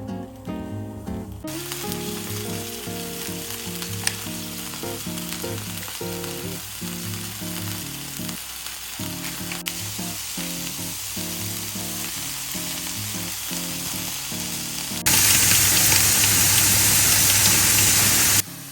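Food sizzling as it fries in a hot pan, over background music. The sizzle gets much louder for the last few seconds, then cuts off suddenly.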